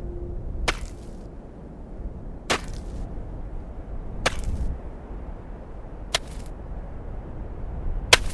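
A pickaxe striking the ground in a steady digging rhythm: five sharp blows about two seconds apart, the last one the loudest.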